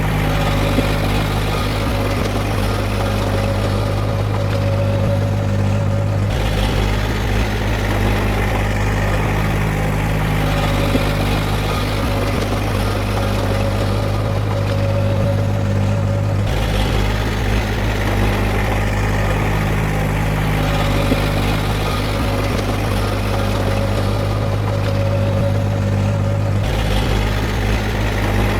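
Diesel engine of heavy earthmoving machinery running steadily. Its sound changes abruptly three times, about every ten seconds.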